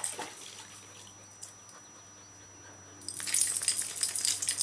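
Water splashing over a wet dog being washed, with light metallic jingling. It is quieter at first, then a loud burst of splashing and jingling comes about three seconds in.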